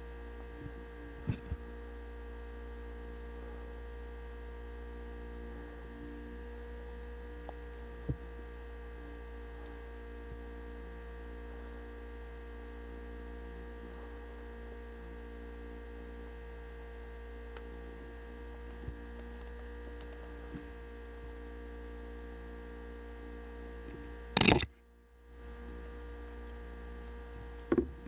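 Steady electrical hum with several fixed tones, with a few faint clicks and one loud sharp knock near the end, after which the hum briefly cuts out.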